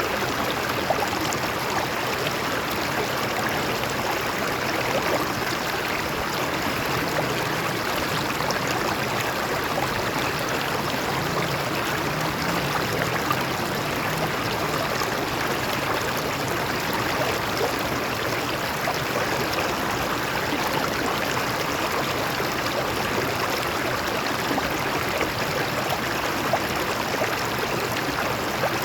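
Stream water running over rocks, a steady rush with many small splashes and gurgles.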